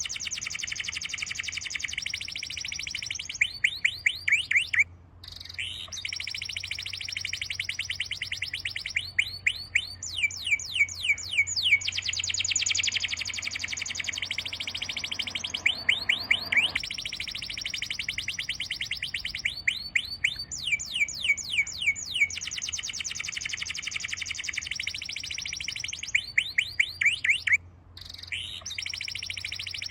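Bird song: rapid, high-pitched trills of chirps and quick sweeping whistles, with two brief breaks, about five seconds in and near the end. The same sequence seems to come round again about every 23 seconds, like a looped recording.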